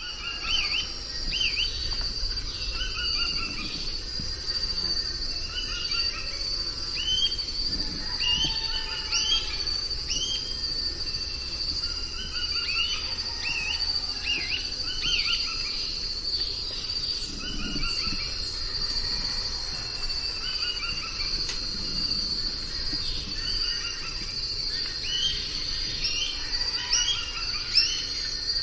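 Tropical forest soundscape: insects keep up a steady high-pitched drone, while many short chirping bird calls repeat in quick series over it.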